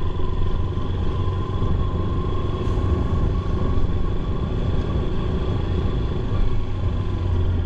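Motorcycle engine running steadily while riding, under a heavy low rumble.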